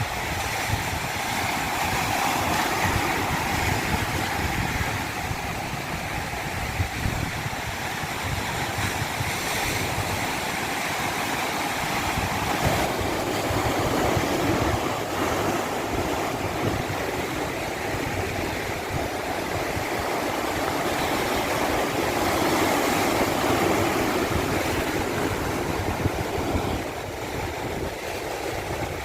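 Steady rushing of a stream cascading over rocks, with mild slow swells in level.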